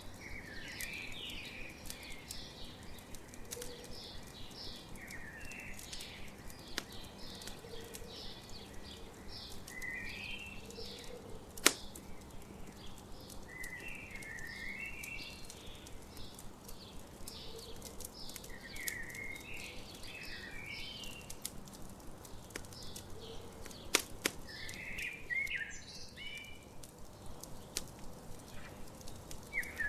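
Campfire crackling with steady small clicks and two loud sharp pops, about twelve seconds apart, while birds keep chirping and singing in short repeated phrases.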